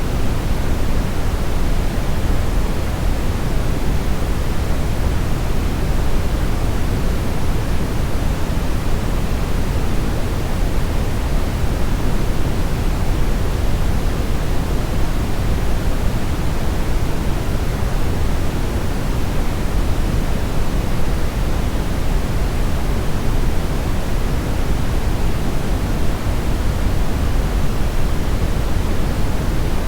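Steady brown noise: an even, deep rushing hiss with its energy in the lows, falling off toward the highs, unchanging throughout.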